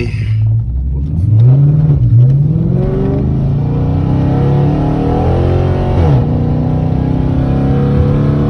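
Car engine accelerating through the gears: the revs climb quickly about a second in, drop at a shift, climb again and rise more slowly, then fall back at another shift about six seconds in and settle to a steady run.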